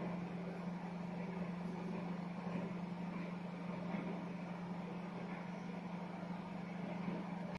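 IFB microwave oven running in convection mode while baking, a steady low hum.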